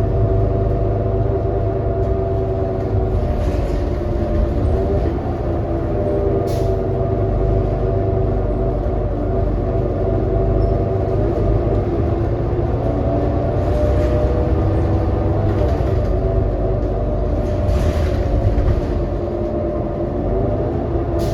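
Inside a 2018 New Flyer XD40 diesel transit bus under way: a steady engine and drivetrain drone over road rumble, topped by several whining tones that waver a little in pitch. This is the odd running noise that the uploader calls messed up.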